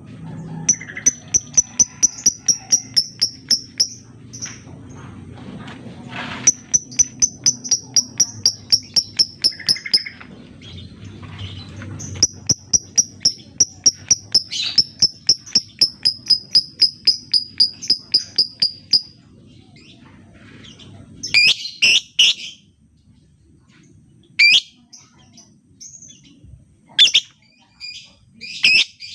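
Lovebird singing: three long runs of rapid, evenly repeated high chirps, each lasting several seconds, the long chattering 'ngekek' song. In the last eight seconds come a few separate, harsher calls.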